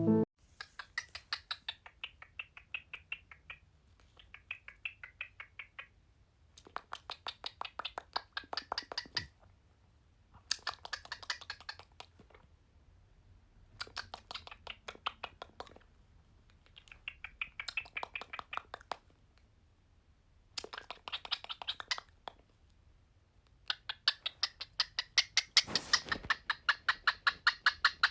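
Pet bird making bursts of rapid, clicking chatter, each burst lasting two to three seconds with short pauses between, louder near the end.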